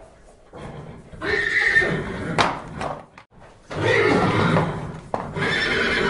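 Horses whinnying: three long calls, the first about a second in, the second near four seconds, the third near the end.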